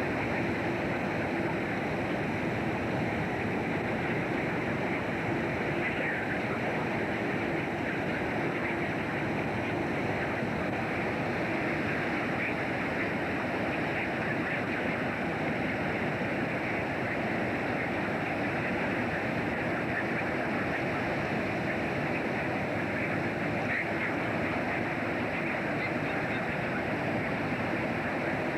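Steady rushing noise aboard a fishing boat at sea: wind and sea wash over a constant engine drone, with a low steady hum.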